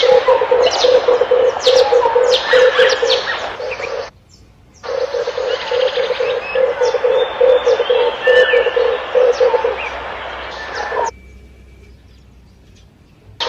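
Red turtle dove cooing: a low, rapidly pulsing coo repeated in long phrases, with a short break about four seconds in, stopping about eleven seconds in. Thin high chirps of other birds sound behind it.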